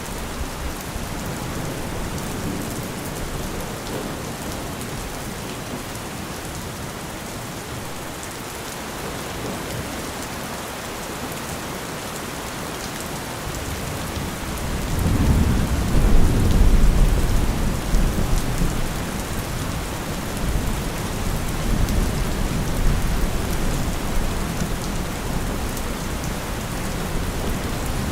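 Steady rain falling, with a low roll of thunder that builds about halfway through, peaks a couple of seconds later and slowly rumbles away.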